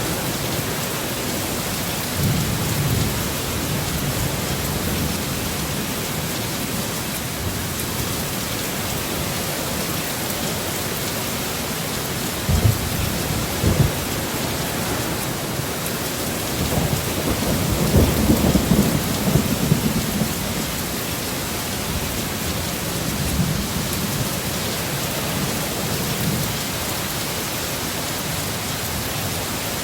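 Heavy storm rain falling steadily, with low rolls of thunder: one early on, two short low knocks midway, and the loudest, longest rumble a little past the middle.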